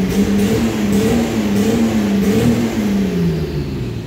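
Chevrolet Opala engine revving, its note rising and falling several times, then dropping away near the end.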